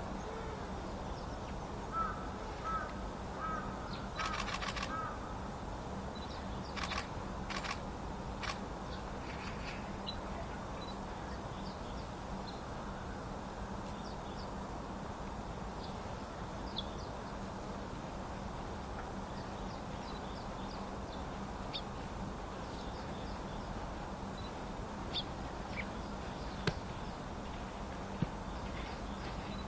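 Harsh corvid calls: a run of short repeated calls, then a few loud rasping calls within the first nine seconds or so. Afterwards, scattered thin high chirps of small woodland birds over a steady low background hum.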